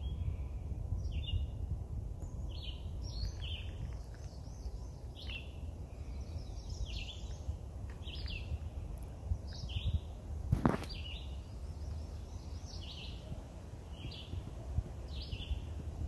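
Songbirds chirping in woodland, short notes one or two a second, over a steady low rumble. A single sharp click comes about ten and a half seconds in.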